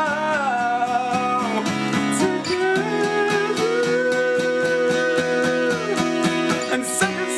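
Live acoustic song: a voice holds long sung notes over a steadily strummed acoustic guitar, about four strums a second.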